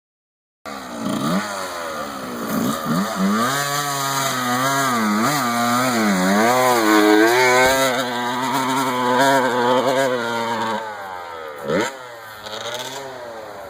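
1992 Yamaha YZ125 dirt bike's two-stroke single-cylinder engine revving, its pitch swinging up and down over and over with the throttle. About eleven seconds in it drops off, gives one sharp rev, and grows fainter.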